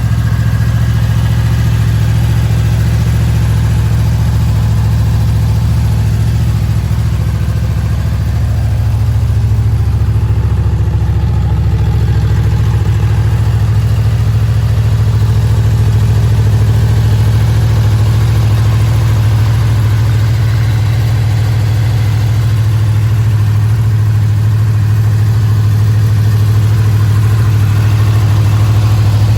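Honda VFR800F's 800cc V4 engine idling steadily.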